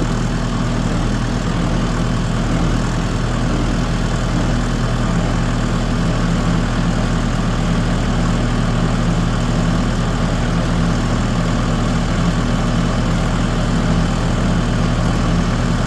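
Tractor engine running steadily at low speed while the tractor is driven slowly, a constant low drone with no change in pitch.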